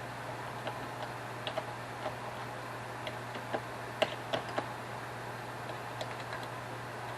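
Irregular light clicks and taps of small metal carburetor parts being handled, the throttle shaft and throttle blades being fitted into the base plate, with three sharper taps close together about four seconds in. A steady low hum runs underneath.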